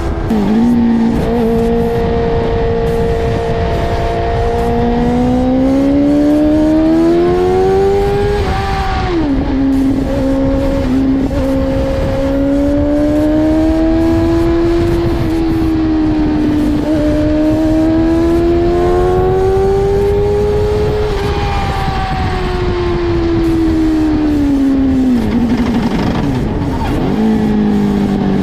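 Inline-four sport motorcycle engine being ridden under way, its note climbing and easing as the throttle changes. The pitch drops sharply at the gear changes, about nine seconds in and again near the end.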